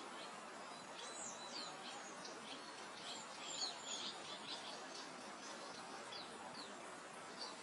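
Small birds chirping in many short, quick, downward-sliding notes over a soft, even hiss of wind through grass. The chirping is busiest about three to four seconds in.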